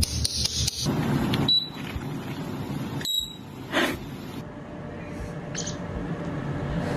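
A loud burst of noise, then two short high-pitched beeps about a second and a half apart, like a smoke-alarm chirp.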